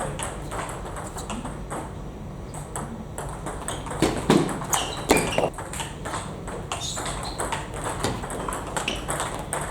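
Table tennis balls clicking off bats and tables in a rally, with quick irregular ticks and a few louder knocks about four and five seconds in.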